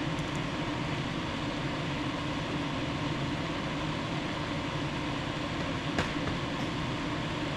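A steady mechanical hum with an even hiss over it, and one sharp click about six seconds in.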